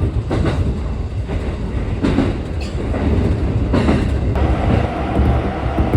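Inside a moving passenger train: a steady low rumble from the running gear, with the wheels clattering over rail joints now and then. The noise grows fuller about four seconds in.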